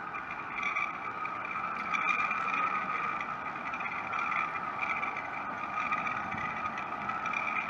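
Jet airliner engines running with a steady high whine over a broad rush of noise.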